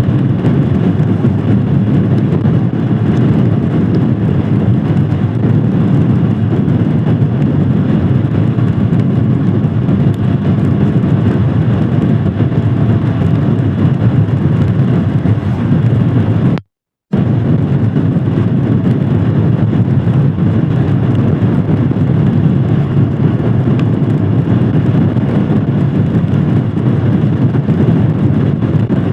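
Royal Enfield Himalayan Scram 411's 411 cc single-cylinder engine running steadily while the motorcycle is ridden, mixed with road and wind noise. The sound cuts out completely for about half a second partway through.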